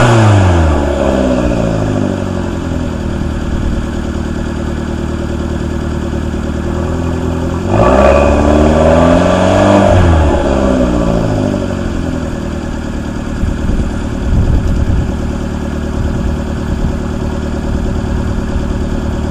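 Stock exhaust of a 2013 Dodge Dart's 1.4-litre MultiAir turbo four-cylinder. The revs fall back to idle at the start, and the engine is revved sharply about 8 seconds in, held for around two seconds, then drops back to a steady idle. A few short throttle blips follow.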